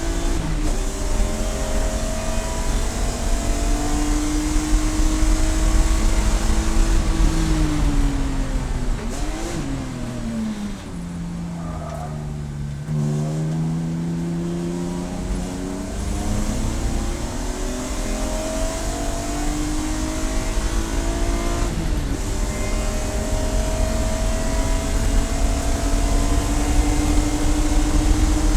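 Race car engine under load, its pitch falling in steps with a quick throttle blip a little before halfway as it brakes and downshifts into a slow corner. It then climbs steadily under acceleration, dropping once about three quarters through at an upshift and rising again.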